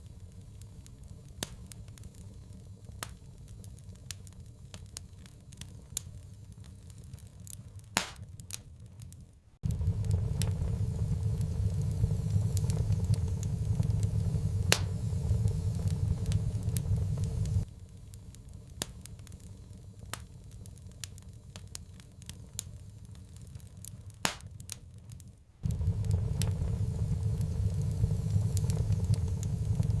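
Wood fire crackling, with scattered sharp pops. Under it runs a steady low rumble that cuts in abruptly about ten seconds in, drops out near eighteen seconds, and returns about twenty-six seconds in.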